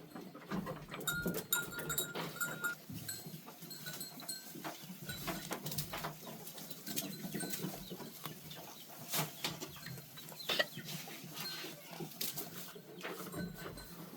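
Animal calls, with short high-pitched calls in the first few seconds, among many scattered clicks and knocks.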